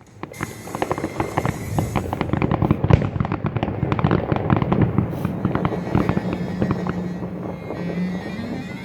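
Fireworks display: a dense, rapid run of crackling and popping from many shells and crackle effects bursting at once, thinning out after about six seconds.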